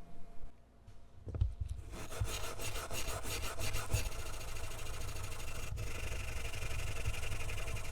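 Abrasive rubbing and scraping on a metal pistol part during rust removal. It starts about a second in, goes in quick strokes for a couple of seconds, then runs on as a steady scrape.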